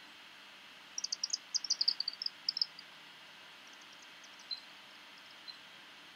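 A small bird singing outdoors: a quick run of high, short chirps that step down in pitch about a second in, then a fainter, shorter run about four seconds in, over a low steady background hiss.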